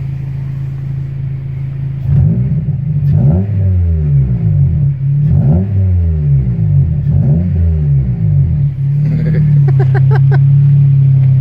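Honda Civic's four-cylinder engine idling loudly through a new open-tube muffler, then revved hard three times and dropping back to idle. The muffler is not yet broken in.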